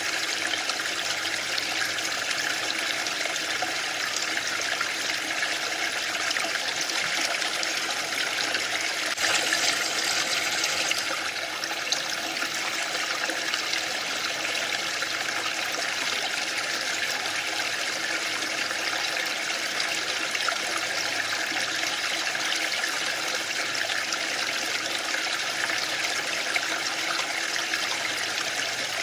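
Waterfall: a steady rush of falling water, swelling briefly about a third of the way in.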